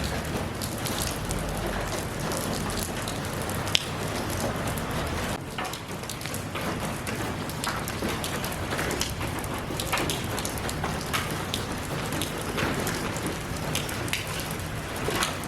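Steady rain falling, with many separate drops ticking and pattering on a hard surface close by, one sharper drop a little under four seconds in.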